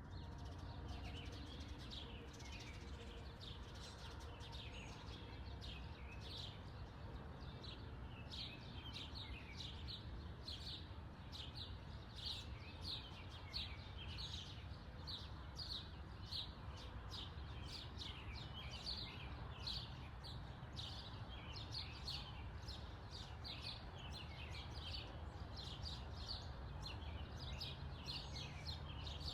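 Small birds chirping outdoors: many short, high chirps in quick succession without pause, over a steady low background rumble.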